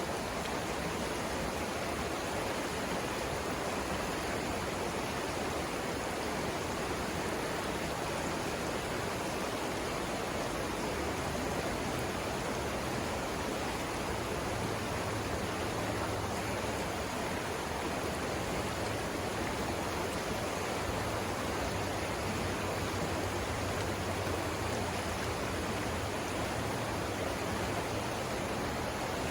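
River water rushing over rapids, a steady, even rush of flowing water with no let-up.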